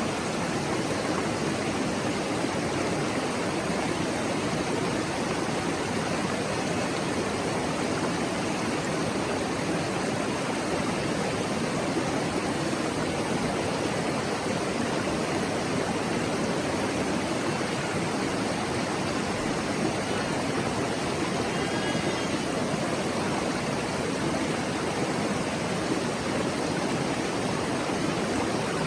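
Mountain stream babbling steadily, an even, unbroken wash of running water.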